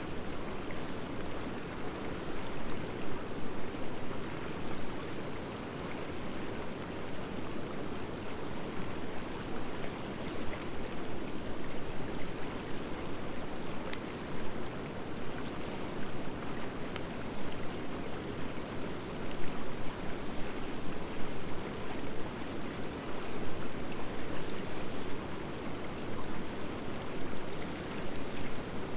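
Wood fire of driftwood and hardwood logs burning: scattered small crackles and pops over a steady rushing sound.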